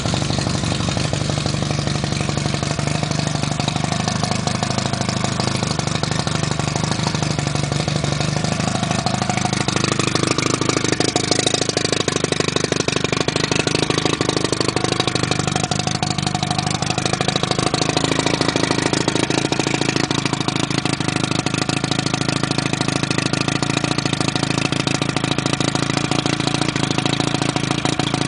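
Johnson Super Sea Horse 40 hp two-stroke outboard motor running steadily at idle, warm, just after being started. Its note shifts slightly about nine seconds in and it runs a little louder from there.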